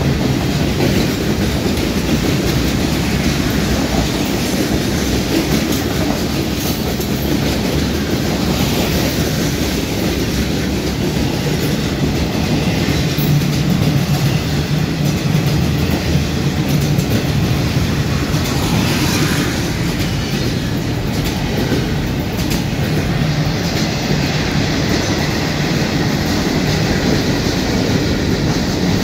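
Freight train rolling past, its cars' wheels clicking steadily over the rail joints.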